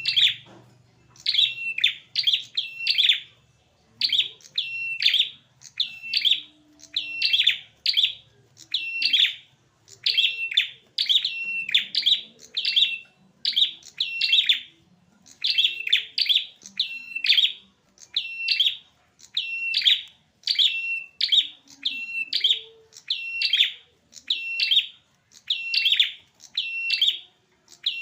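Male prinia (prenjak) calling insistently, sharp chirp phrases repeating about once a second, some in quick pairs: the agitated calling of a male in a fight.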